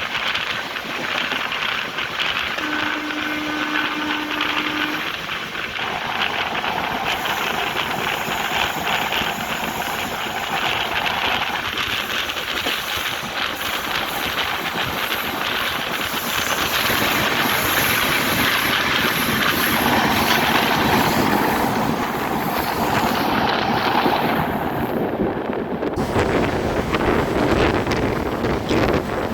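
Indrayani Express passenger train running along the track, with steady wheel-and-rail noise and a short steady tone about three seconds in. Near the end, wind starts buffeting the microphone.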